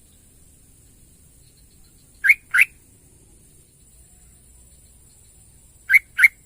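Sooty-headed bulbul calling: two short phrases about four seconds apart, each a quick pair of rising whistled notes.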